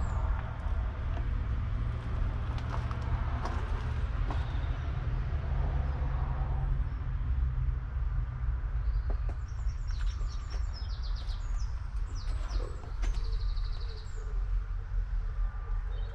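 Case IH Puma 240 CVX's 6.7-litre six-cylinder diesel running, a steady low rumble. Birds chirp over it about ten seconds in and again near the end.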